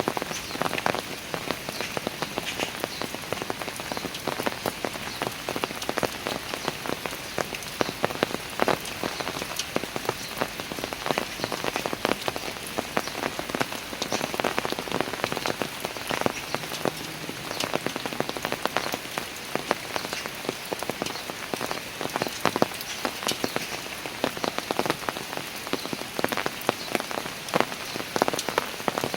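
Steady rain falling on park stairs, an even hiss with dense, close individual drops tapping and splashing throughout.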